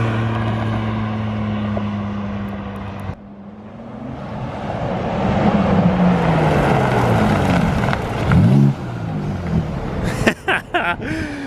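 BMW G80 M3's twin-turbo inline-six, fitted with aftermarket intakes and downpipes, running loud on the road. It holds a steady engine note for about three seconds, then after a cut it revs up and down in pitch, with a quick drop and rise near the end. A few sharp clicks follow.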